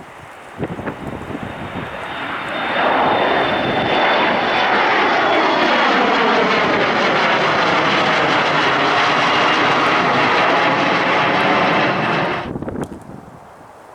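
Jet airliner's engines passing close by: the sound swells over the first few seconds to a loud, steady rush with a thin high fan whine, then cuts off abruptly near the end. Gusty wind buffets the microphone at the start.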